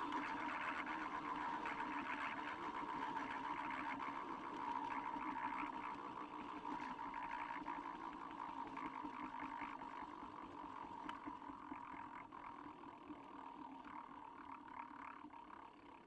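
Pump-action toy spinning top whirring, a steady two-toned hum that gradually fades as the top slows down.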